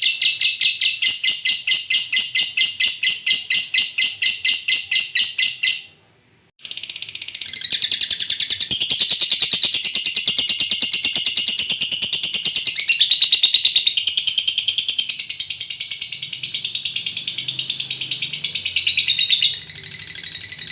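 Lovebird's long 'ngekek' chattering: a continuous rapid run of shrill, repeated chirping notes, broken by a brief silence about six seconds in before it starts again.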